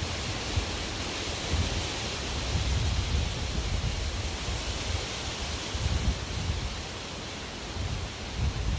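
Strong wind blowing steadily, with a broad hiss and low gusting rumbles, some of it wind buffeting the microphone.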